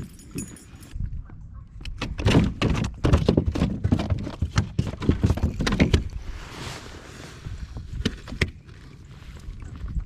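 Knocks, bumps and rattles of gear being handled in a plastic kayak, thickest through the middle few seconds.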